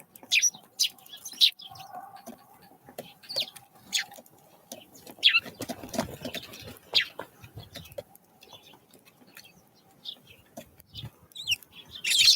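Small wild birds calling with short, high chirps scattered irregularly, a few of them sliding down in pitch.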